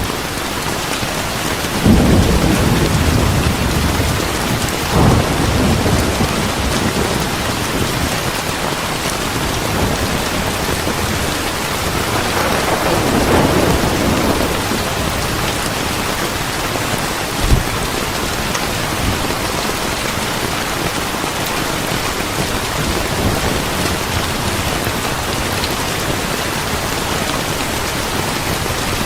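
Steady heavy rain with rolling thunder: low rumbles swell a few times, the strongest about two seconds in, and there is a short sharp thump about two-thirds of the way through.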